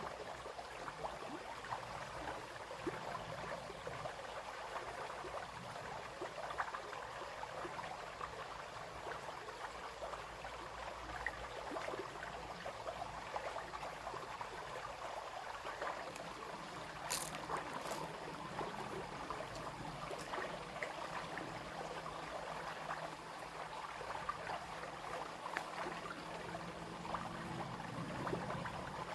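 Small brook babbling and trickling steadily, with two brief clicks a little past halfway.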